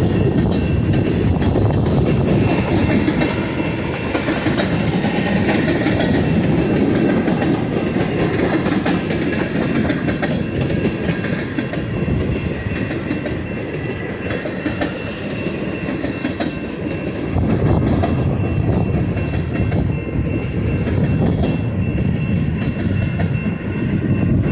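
Intermodal freight train's cars rolling past at track side: a steady, loud rumble of steel wheels on the rails, with a faint high ringing tone above it.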